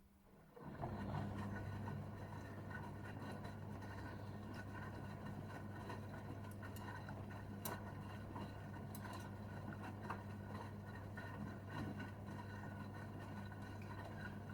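Gorenje UseLogic 65165 washing machine starting up about a second in and then running steadily mid-cycle: a low steady hum under a rustling noise with scattered light clicks.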